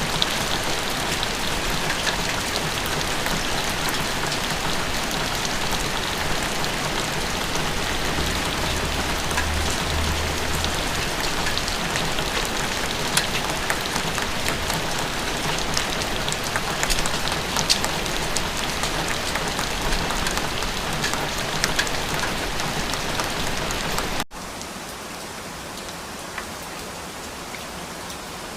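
Steady rain falling, with scattered sharp hits of single drops. About 24 seconds in it cuts abruptly to a quieter, softer rain.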